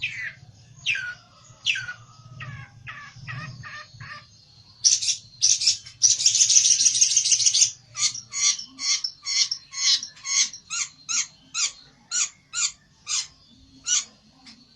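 Pelentet songbird calling in an agitated, rival-challenging state. It gives a series of sharp downward-sweeping notes, then a dense buzzing rattle for about two to three seconds, then a fast run of short repeated notes, about three a second.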